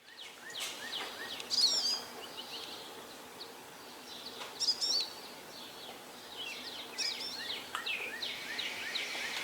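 Songbirds singing and chirping, with bursts of quick twittering phrases recurring every few seconds and short repeated chirps in between.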